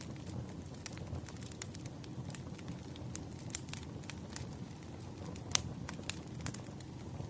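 Campfire crackling: irregular sharp pops and snaps over a steady low rumble of burning wood, with one louder pop about five and a half seconds in.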